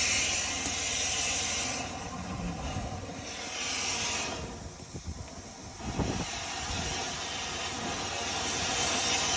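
Rushing air with a steady low motor hum underneath, swelling and easing several times.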